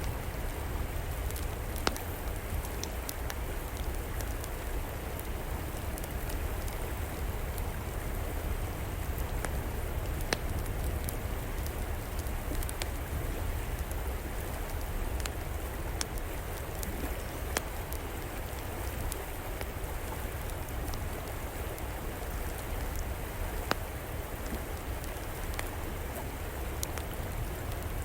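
A river flowing in a steady rush, mixed with a wood fire crackling in scattered sharp pops, a few louder than the rest.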